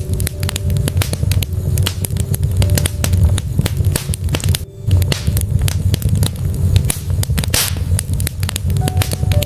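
Wood logs burning in a fireplace, crackling with many sharp pops over a steady low rumble of the flames. A brief hiss comes about three quarters of the way through.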